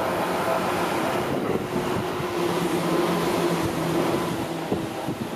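Seibu 4000 series electric train running past at close range: a steady rumble of wheels on rail and running gear, with a low drone from about two seconds in.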